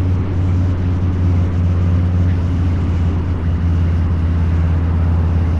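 Harley-Davidson Low Rider's 129 cubic inch V-twin running through a Two Brothers Racing exhaust at a steady throttle while riding, its deep note holding an even pitch.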